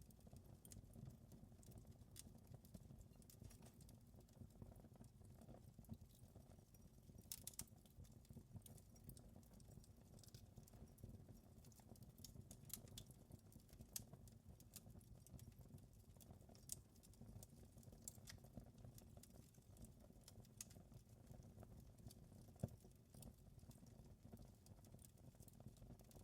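Wood fire crackling faintly over a low steady rumble, with scattered small pops and one sharper pop late on.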